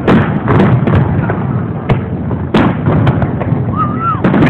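Aerial firework shells bursting in a rapid, irregular series of loud bangs. A brief whistling tone comes near the end.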